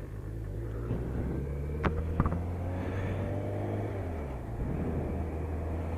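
BMW K1200RS motorcycle's inline-four engine running on the move, a steady low drone that drops slightly in pitch about four seconds in. Two sharp clicks sound about two seconds in.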